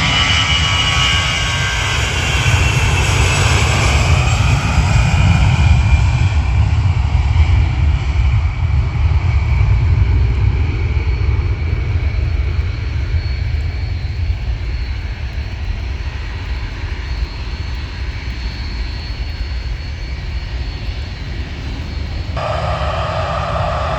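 Jet airliner taking off at full thrust: a loud, steady low rumble with a high engine whine that falls in pitch as it passes, then slowly fading away. The sound changes abruptly near the end.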